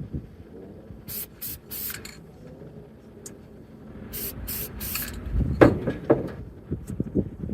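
Aerosol spray-paint can spraying green paint onto a steel M1 helmet in short hissing bursts: three quick bursts about a second in, and three more a few seconds later. Then louder irregular knocks and bumps of handling.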